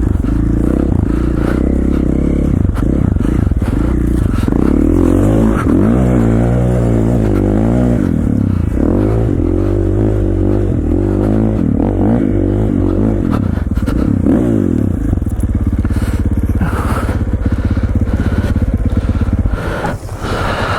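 KTM 450 XC-F dirt bike's single-cylinder four-stroke engine, revving up and down repeatedly while riding, then running steadier after about fifteen seconds, with a brief drop near the end.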